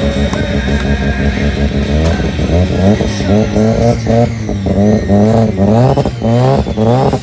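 Turbocharged 13B twin-rotor Mazda rotary engine at high revs under a burnout. It holds a fairly steady pitch for a couple of seconds, then is revved up and down in quick repeated rises, two or three a second.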